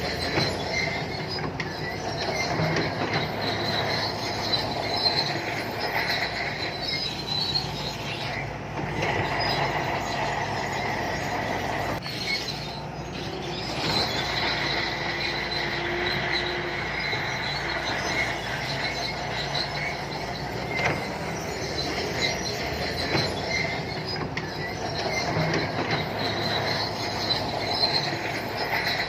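SANTUI crawler bulldozer's diesel engine running steadily, with a high metallic squeal and clatter from its steel tracks as it moves.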